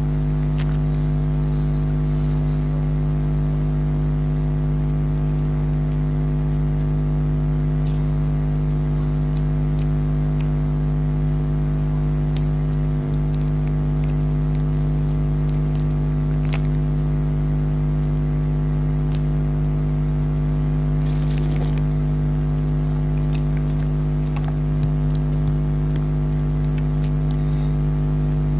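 A steady motor-like hum with a low drone and several steady tones, with scattered short, sharp clicks and crackles over it, a small cluster of them about two-thirds of the way through, typical of jelly candies being handled and eaten close to the microphone.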